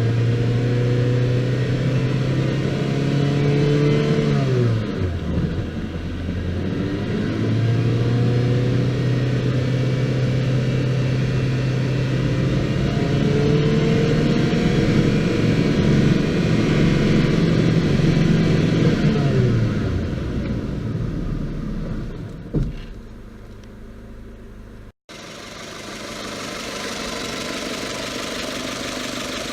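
Toyota 4A-GE 20-valve inline-four held at steady raised revs, dropping back twice and rising again in between. After a sudden break it runs more quietly and evenly, settling toward idle near the end.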